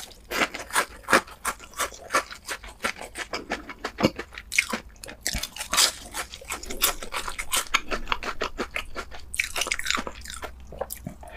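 Close-miked chewing of crispy fried food: a fast, uneven run of crunches as the fried batter breaks between the teeth.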